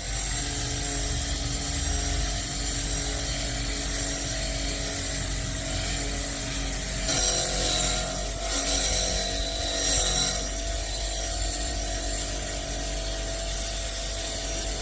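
Power tool working the rusted steel of a sword blade: a steady motor hum under a hissing scrape. It grows louder and the hum wavers between about seven and ten seconds in.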